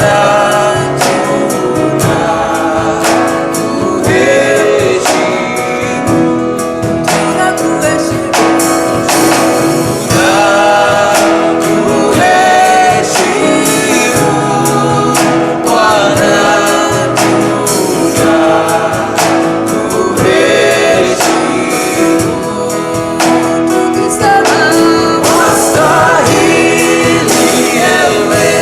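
Gospel worship song performed live: voices singing together over a band, with a steady drum beat.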